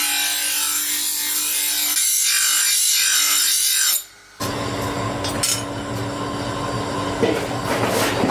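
Power-tool grinding or sanding of a steel knife blade: a loud abrasive hiss that wavers as the piece is worked. It breaks off about four seconds in, and a machine then runs with a steady hum and rattle.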